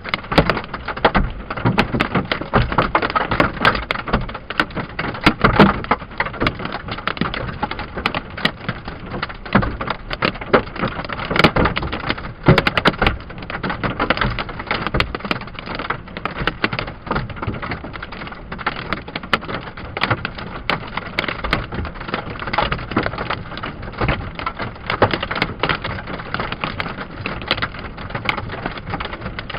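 Hail pelting a truck's roof and body, heard from inside the cab: a dense, rapid clatter of hard hits, heaviest in the first half and easing a little after.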